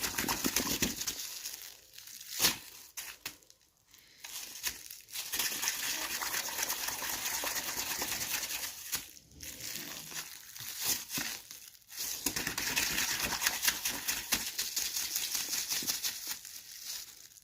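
Plastic bag filled with water being squeezed and crinkled by hand: dense, crisp crackling in long stretches with short pauses between them, and one sharp louder crackle about two and a half seconds in.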